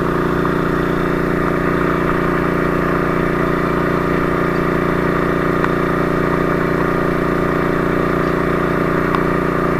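Fire truck engine running at a steady speed, a constant drone that holds the same pitch, with no revving.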